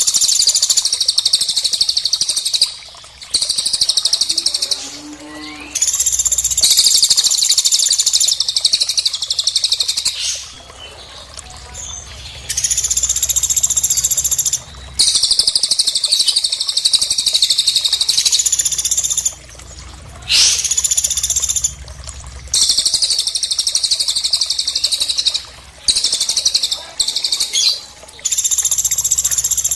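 Loud, high bird trills in bouts of about two to four seconds with short gaps between them: recorded cililin and pelatuk calls mixed together as a masteran track for training cage songbirds.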